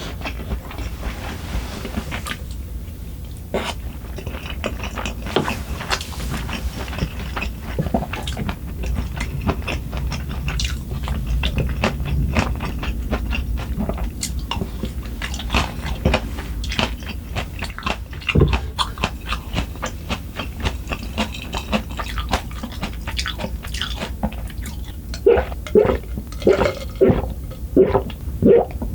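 Close-miked eating sounds: a person chewing food, with many short, sharp clicks of utensils against the dishes.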